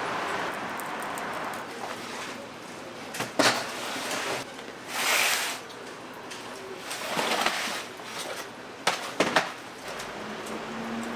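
Kitchen work noises: several sharp knocks and clatters and a brief hissing scrape about five seconds in, over a steady background hiss.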